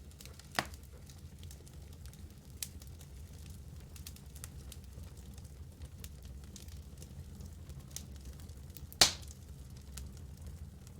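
Wood fire burning in a fireplace: a steady low rumble of flames with scattered sharp crackles and pops from the logs. The loudest pop comes about nine seconds in.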